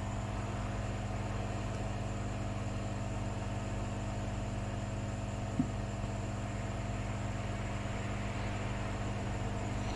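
Hot-air rework gun blowing on a circuit board: a steady fan hiss over a low electrical hum, with one light tick about halfway through.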